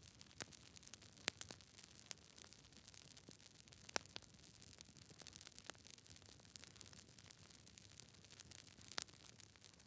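Campfire burning: wood crackling with scattered sharp pops over a soft hiss, the loudest pops about a second in, at four seconds and near the end.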